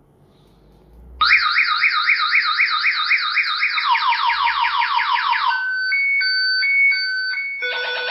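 Motion alarm of a 12 V Bluetooth motorcycle sound unit going off. It is a loud electronic siren that starts suddenly about a second in with rising sweeps at about four a second. The sweeps then come faster, switch to an alternating two-tone beep, and change to another warbling tone near the end.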